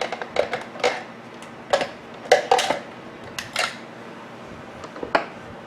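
Sharp metallic clicks and clinks of small metal parts being handled as the stuck spindle-lock pin is worked out of a Skil 4-inch angle grinder's gear head. There are about eight clicks in the first four seconds and one more near the end.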